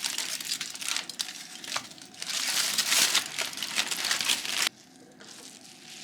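Crinkly wrapping being handled and crumpled: a dense, loud crinkling that stops abruptly about four and a half seconds in, followed by fainter rustling.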